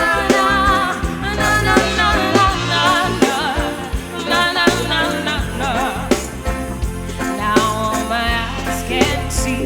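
A band playing a slow love song: a singer's voice holds wavering wordless lines over bass, keyboard and a steady drum beat.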